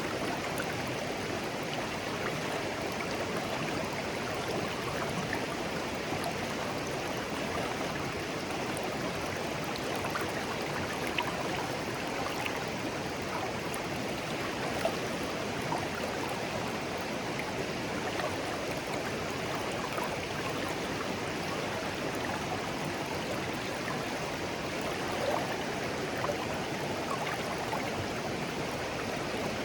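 A shallow, clear stream flowing gently over stones: a steady babble with small splashes and drips now and then.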